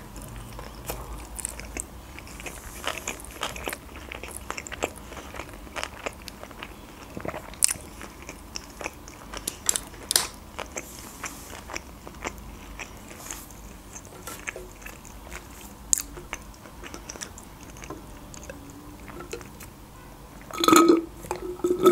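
A person chewing sushi rolls, with many small wet clicks and smacks of the mouth. A brief louder mouth sound comes near the end.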